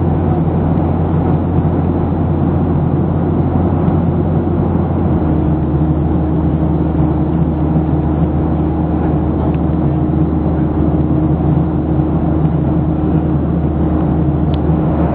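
Jet engine and airflow drone heard inside the cabin of a Boeing 737-800, with CFM56 turbofans. About five seconds in, the low drone shifts in pitch and a steady hum joins it for several seconds.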